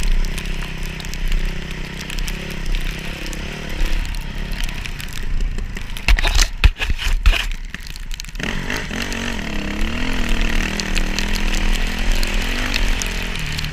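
Dirt bike engine running, its pitch rising and falling with the throttle. About six seconds in, the engine tone is drowned for a couple of seconds by a run of knocks and rushing noise, then returns.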